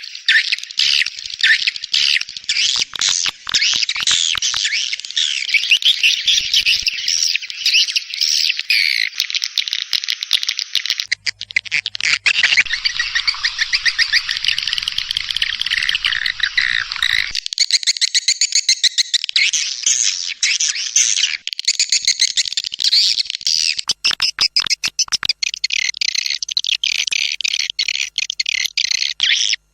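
Swiftlet call recording used to lure swiftlets into nesting houses: dense, continuous high chirping and twittering of edible-nest swiftlets. It is made of spliced sections whose character changes abruptly every few seconds.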